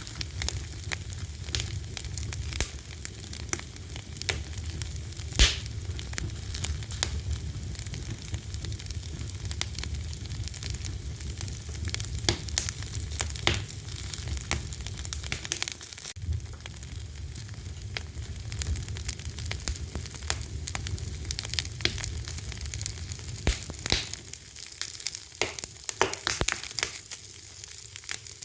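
A fire crackling: dense, irregular pops and snaps over a low, steady rumble, with one sharp, loud pop about five seconds in. The low rumble fades near the end while the crackles go on.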